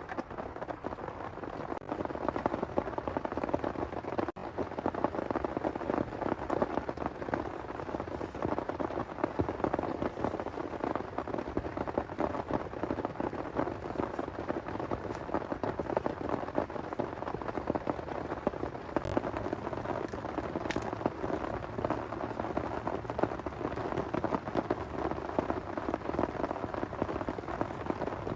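Heavy rain falling steadily, a dense, even patter of many close drops.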